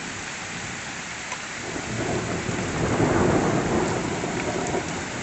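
Heavy rain falling steadily, with a roll of thunder that builds about two seconds in, is loudest around the middle and eases toward the end.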